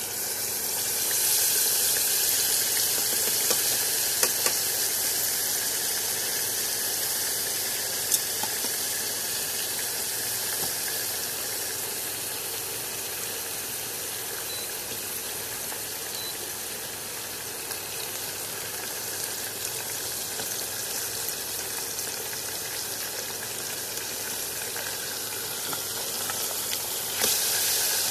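Chicken leg deep-frying in hot oil in a small saucepan: a loud sizzle that starts as the seasoned piece goes into the oil and slowly eases, with a few sharp crackles. Near the end the sizzle briefly swells as the piece is moved with tongs.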